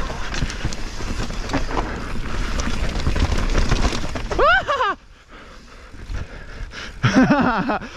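Mountain bike descending a rough dirt trail: tyre and ground noise with rattles and knocks from the bike. A short shout about four and a half seconds in, then a quieter stretch, and another vocal sound near the end.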